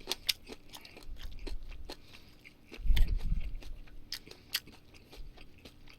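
Close-miked chewing and mouth sounds of a person eating, with scattered small wet clicks and crackles, and a louder low thud about three seconds in.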